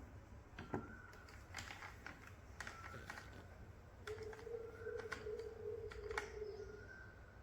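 Faint, scattered clicks and taps. A short high tone recurs every couple of seconds, and a steady lower tone runs for about three seconds in the second half.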